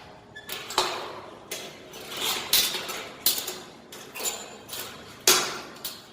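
Irregular metallic knocks and clanks on steel, about a dozen in six seconds, some ringing briefly, the loudest about five seconds in.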